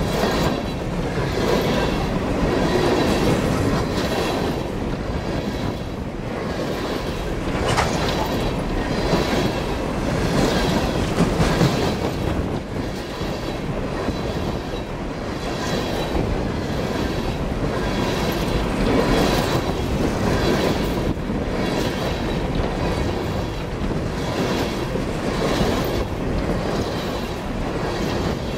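Freight cars of a coal train rolling past close by: steady noise of steel wheels on the rails, with repeated clatter as wheel sets cross the rail joints.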